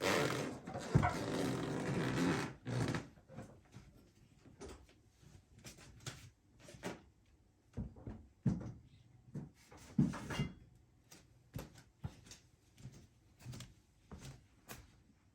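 A loud burst of rustling and clattering with a sharp knock about a second in, followed by scattered short knocks and clicks, like objects being handled and set down.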